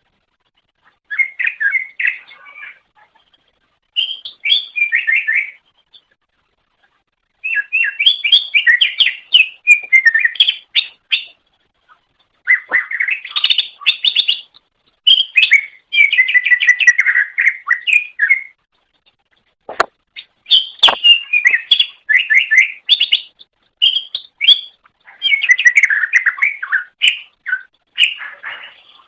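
Cucak ijo (green leafbird) singing: loud phrases of rapid, varied chattering and whistled notes, each lasting one to four seconds, separated by short pauses.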